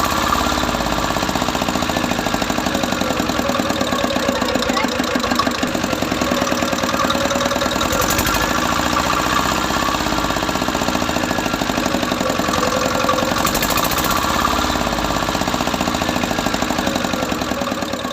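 Mini diesel engine running steadily with a fast, even knocking beat.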